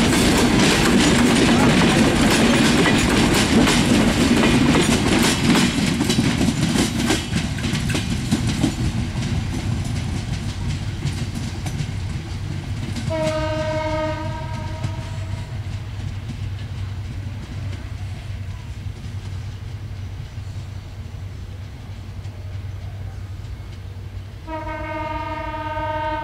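Passenger train coaches rolling past close by, wheels clattering over rail joints, the sound fading as the train draws away. The train's horn then sounds twice: a blast of about a second halfway through and a longer one near the end.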